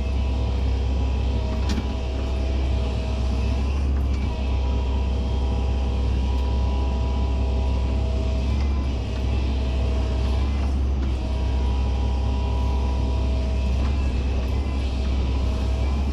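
Excavator's diesel engine running steadily, a constant low drone with a faint steady whine above it.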